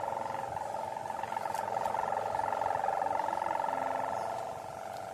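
Plastic-film hummer (sendaren mika) on a large barong kite droning in strong wind: a steady high hum with several overtones, swelling a couple of seconds in and easing off near the end.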